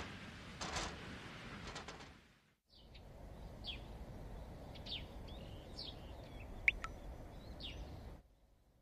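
Faint soft noises for about two seconds, then after a brief gap small birds chirping in short, scattered calls over a faint steady hiss.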